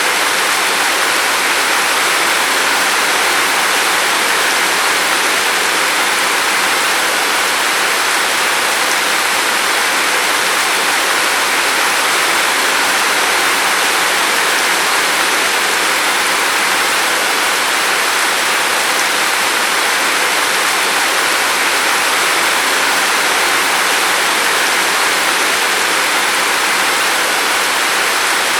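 Steady heavy rain, an even unbroken hiss with no single drops standing out.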